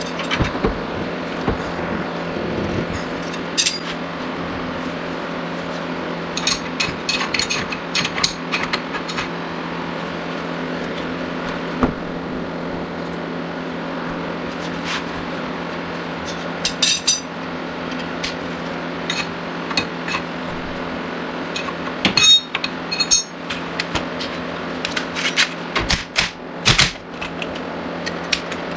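Metal hand tools clicking and clinking in scattered clusters against the car's suspension bolts as they are tightened, over a steady low hum.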